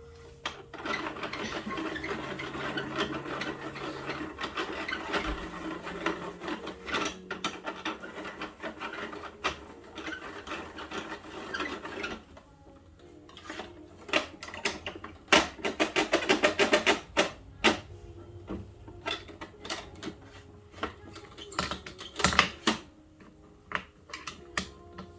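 Plastic Bruder toy garbage truck being worked by hand: rubbing and scraping of plastic parts for the first half, then a fast run of clicks in the middle and scattered knocks and clicks after it.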